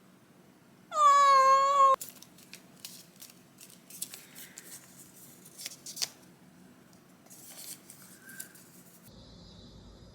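A domestic cat meows once, a single long call of about a second, followed by scattered light clicks and taps.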